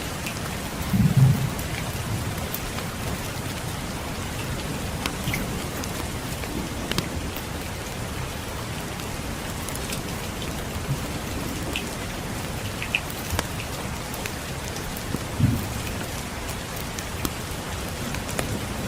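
Steady rainfall with scattered small crackling pops from a wood fire. Two brief low thumps stand out, one about a second in and one near the end.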